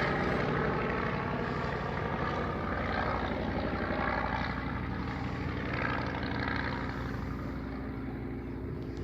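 Radio-controlled scale model Fleet biplane's engine and propeller running steadily, slowly growing quieter.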